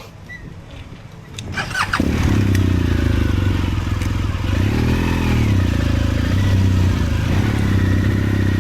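Motorcycle engine starting about two seconds in, then running steadily with one brief rev that rises and falls in the middle.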